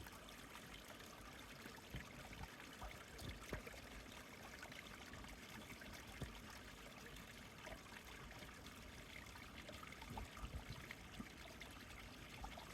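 Faint steady outdoor hiss, with scattered small clicks and a few soft low knocks.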